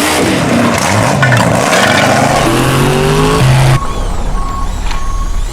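Monster-truck engine sound effect revving up and down, loud and rough. About three-quarters of the way through it cuts off abruptly and is replaced by a repeating short beep.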